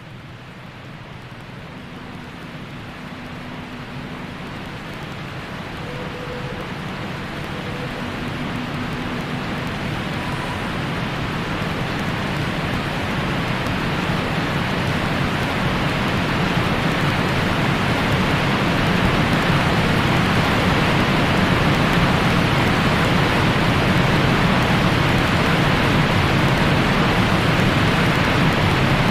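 White noise for lulling a newborn to sleep: a steady, even hiss that fades in and grows louder over the first twenty seconds or so, then holds level.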